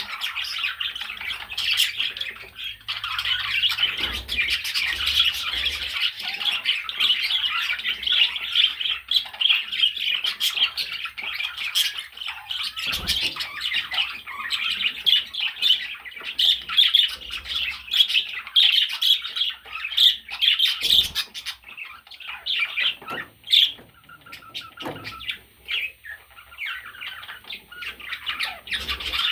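Budgerigar chattering and warbling in a fast, continuous stream of squawks and chirps, thinning out briefly about three-quarters of the way through.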